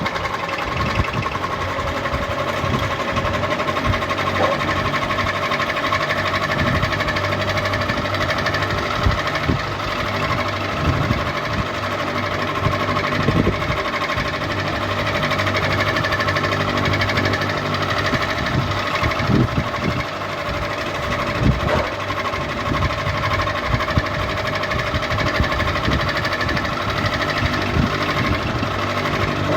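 Ceiling fan running steadily, a constant motor hum and whirr with occasional light irregular knocks.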